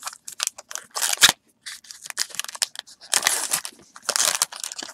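Baseball trading cards handled and slid against one another: a run of quick clicks and swishes of card stock, with longer rustling scrapes about a second in, just after three seconds and around four seconds.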